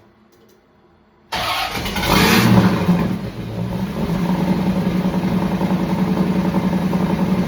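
1989 Corvette's V8 engine starting about a second in, revving up briefly, then settling into a steady idle.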